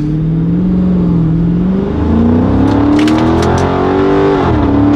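Muffler-deleted 2023 Chrysler 300C's 6.4-litre HEMI V8 accelerating hard from a stop, loud exhaust note climbing in pitch. The note drops briefly about two seconds in, climbs again, then drops sharply near the end.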